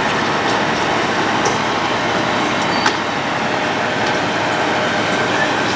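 Road planer at work, a steady loud grinding noise with occasional sharp clicks, and one louder knock about three seconds in.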